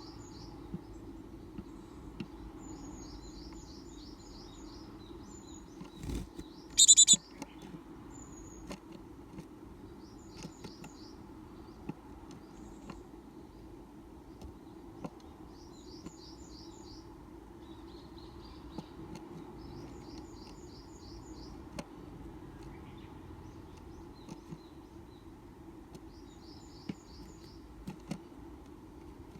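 Japanese tits calling: quick runs of five or six high, thin notes, repeated every few seconds, with one much louder, closer call about seven seconds in. A steady low hum lies underneath.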